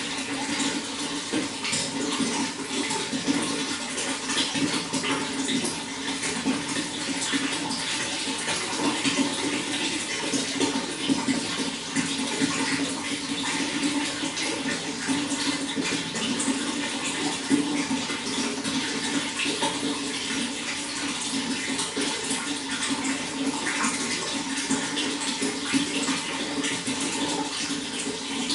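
Running water flowing steadily, an even rush with no pauses.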